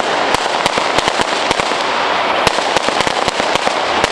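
Fireworks going off in rapid succession: many sharp, irregular bangs and crackles, several a second, over a steady hiss.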